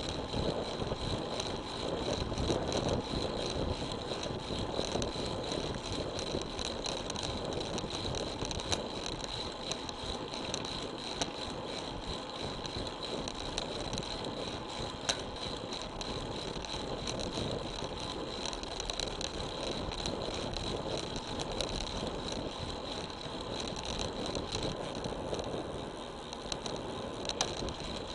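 Road bike rolling along at speed on 700c wheels: tyre and road noise with wind over the action camera's microphone, small rattles and ticks from the bike, and a steady high whine.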